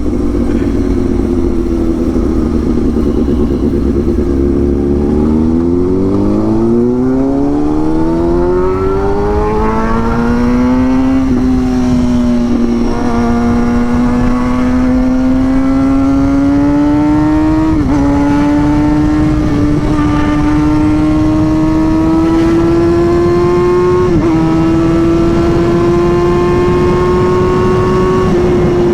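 Sport-bike engine accelerating hard up through the gears. Its pitch climbs steeply at first, then dips briefly at three quick gear changes, about 11, 18 and 24 seconds in, and keeps climbing after each.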